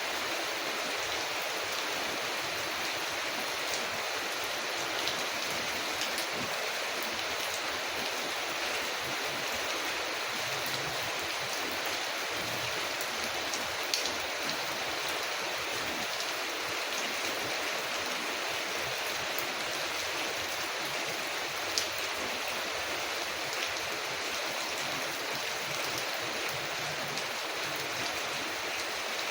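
Steady hiss of rain falling on a window, mixed with a few sharp crackles from a wood fire, the loudest about halfway through and again about two-thirds of the way in.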